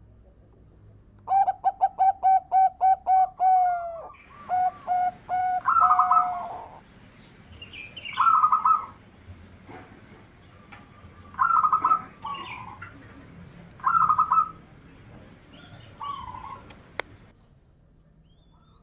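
Zebra dove (perkutut) cooing: a quick run of about ten short staccato notes, then a few more, followed by short higher-pitched cooing phrases every two to three seconds.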